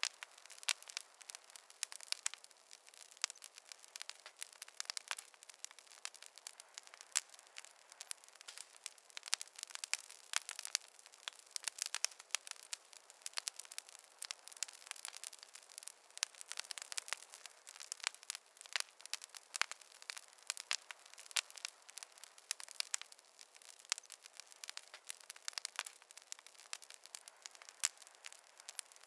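Campfire crackling: a steady stream of irregular small pops and snaps, several a second, over a faint hiss, with no low rumble.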